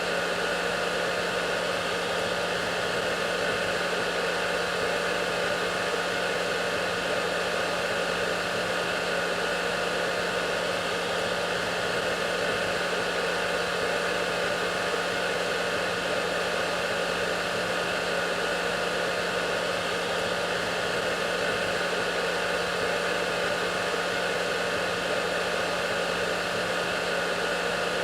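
Hair dryer running steadily: a constant rushing air noise with a steady low motor hum underneath.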